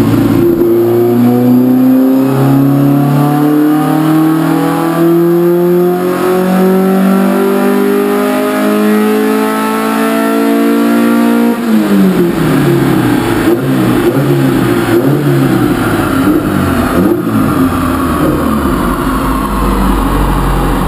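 ERA single-seater's 1.8-litre Ford four-cylinder engine on a chassis dyno at full throttle in one gear, its revs climbing steadily for about eleven seconds during a power run. The throttle then snaps shut, the revs drop back abruptly, and the engine runs unevenly off-throttle as the rollers coast down.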